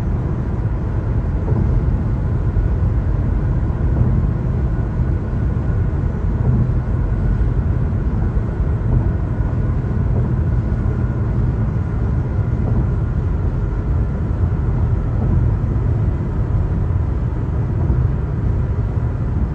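Car tyre and road noise from driving over the bridge's pavement: a steady low rumble with a faint steady whine above it.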